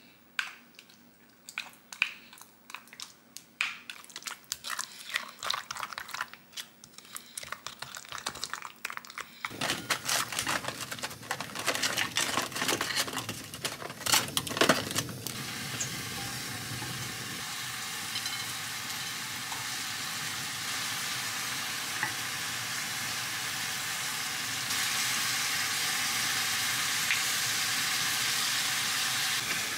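A wooden spoon clinking and scraping against a glass measuring cup as a chilli sauce is mixed; about ten seconds in, pork belly and vegetables drop into a hot pan and start sizzling, with a few knocks of stirring, then a steady frying sizzle.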